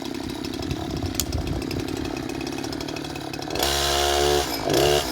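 Two-stroke chainsaw engine running steadily at a low speed, then revved hard twice near the end: once for about a second, then in a short burst.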